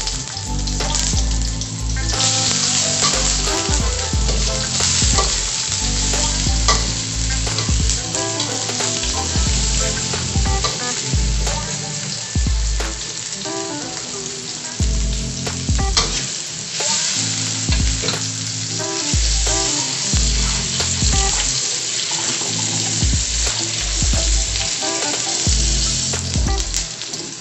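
Sliced shallots frying in hot oil in a stainless steel wok, a steady sizzle that grows stronger about two seconds in, with a metal spatula stirring and scraping the pan now and then.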